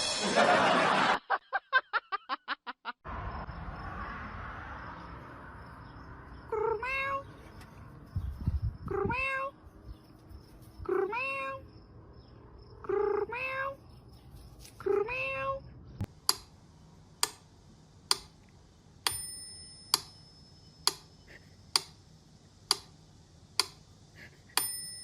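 A cat meowing over and over, six drawn-out meows about two seconds apart, each rising then falling in pitch. Then comes a steady run of sharp clicks, about one a second.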